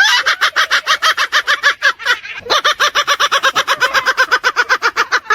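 A parrot giving a fast, even run of repeated calls, about nine a second, with a brief pause a little past two seconds in.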